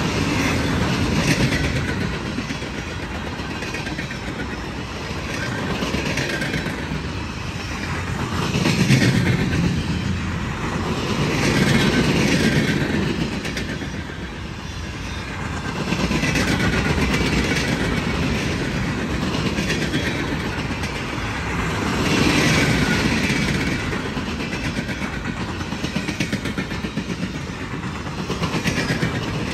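Empty railroad flatcars of a freight train rolling past, steel wheels clacking over the rail joints. The rolling noise swells and eases every few seconds as the cars go by.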